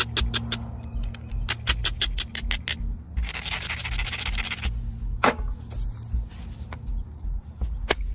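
Stone knapping on a chert-like limestone biface: two quick runs of light clicking taps against the stone edge, then a stretch of scraping as the edge is abraded. After that come two separate sharp strikes, the first ringing briefly, as a copper punch is struck with an antler or billet to drive off flakes.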